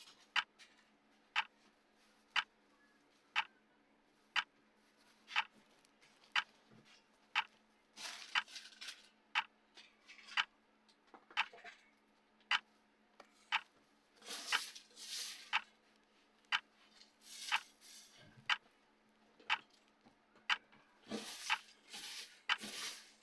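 Timer's clock tick sounding once a second, steady and even. Several short scratchy, hissy noises come in between the ticks a few times.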